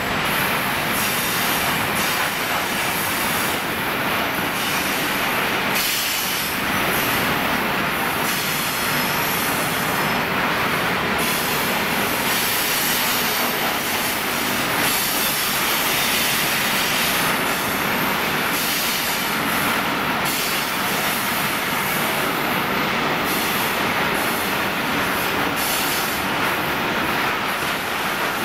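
Long freight train of loaded open-top wagons rolling past at steady speed: a continuous, even noise of steel wheels running on the rails.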